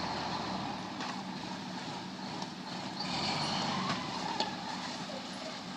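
Fire engine running as it does a hydrant lay, a steady truck engine sound with a few sharp clicks and a brief hiss about halfway through.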